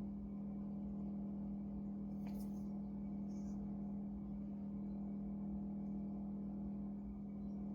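Steady low hum on one constant pitch, with faint small clicks about two and three seconds in.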